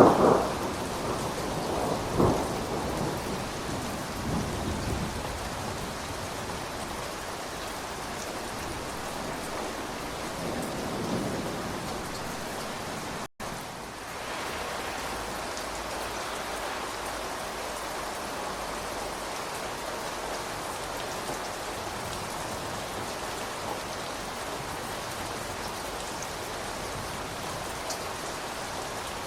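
Steady rain, with a thunderclap about two seconds in whose rumble fades away over the next few seconds. The sound cuts out for a split second about halfway through, then the rain carries on evenly.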